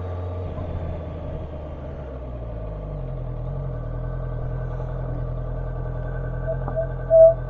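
Honda CB650F inline-four motorcycle engine running at low speed, its note changing and then holding steady about three seconds in, as though settling to a low, steady speed or idle. A brief louder high tone sounds near the end.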